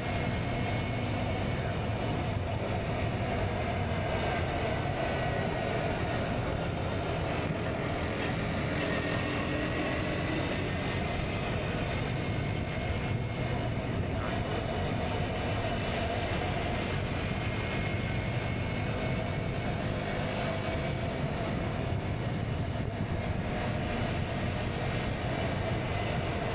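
KTM Duke 125's single-cylinder four-stroke engine running through an Akrapovic exhaust while riding at a fairly steady pace. Its pitch drifts gently up and down, with no sharp revs or gaps.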